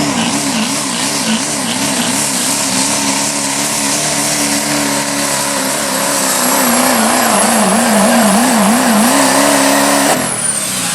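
'05 Chevy pickup's turbo-diesel engine held at full throttle while pulling the sled, its note wavering up and down repeatedly. A high steady whistle runs with it. About ten seconds in, the engine lets off suddenly and the whistle falls away.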